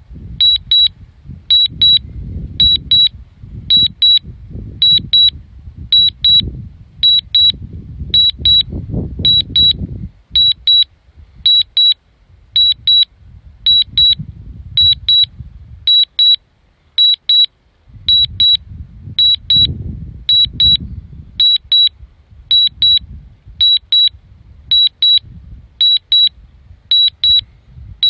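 Drone controller warning alarm: short high-pitched beeps in quick clusters, repeating about once a second without let-up. Wind buffets the microphone underneath, easing off for a few seconds about halfway through.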